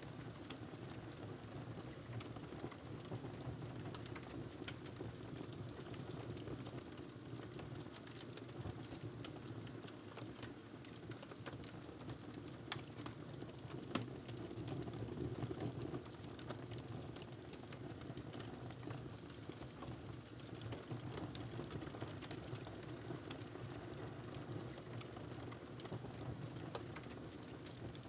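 Wood fire crackling in a fireplace: a steady low rumble of burning with scattered sharp pops and snaps, two of them louder about halfway through.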